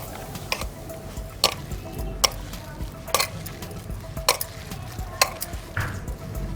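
Chopped onions and green chillies being mixed with gram flour by hand in a bowl, a rustling, crackly working sound with sharp clicks against the bowl about once a second.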